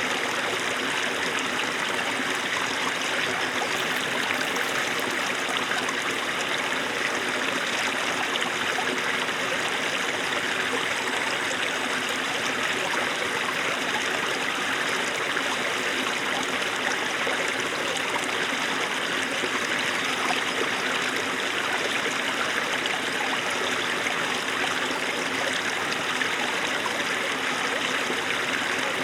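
Small snowmelt stream running over stones, a steady, even babbling and trickling of water.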